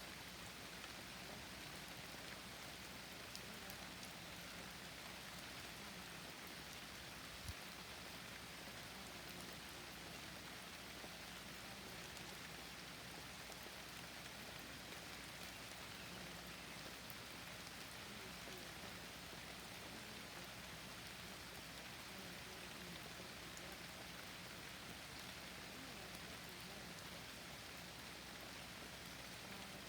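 Forest rain falling steadily: a soft, even hiss of rain with faint scattered drop ticks.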